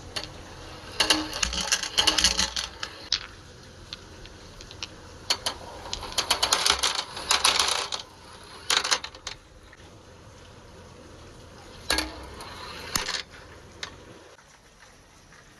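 Marbles rolling and clattering along a handmade marble run, in bursts of rapid clicks about a second in, again from about five to eight seconds, and around twelve seconds.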